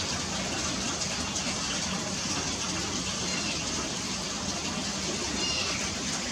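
Steady rushing background noise, even in level throughout, with a few faint, brief high chirps about three and five and a half seconds in.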